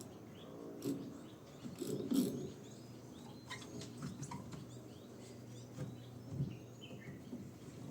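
Small birds chirping with many short, quick calls, over a low steady hum, with a few dull knocks, the loudest about two seconds in.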